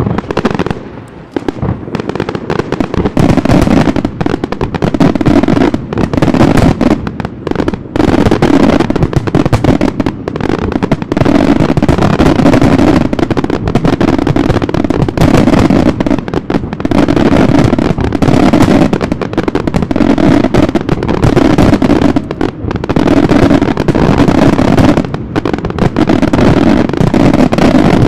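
Professional fireworks display: a dense barrage of aerial shell bursts and crackling, reports following one another with hardly a gap. It starts abruptly and thickens after a couple of seconds.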